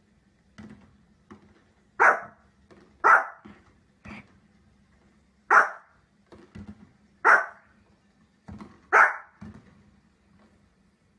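A dog barking: five loud, single sharp barks spaced a second or two apart, with fainter shorter sounds between them.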